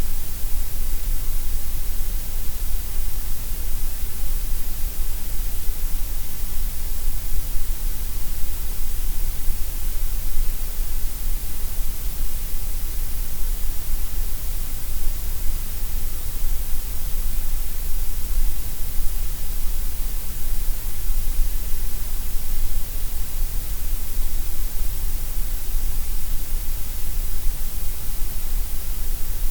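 Steady gray noise: an even, unchanging hiss spread across all pitches, with extra weight in the deep lows and the highs.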